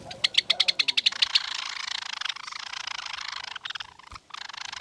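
A small pet munia bathing in a dish of water: a quick run of sharp flicks, then steady splashing and wing-fluttering in the water that pauses briefly near the end.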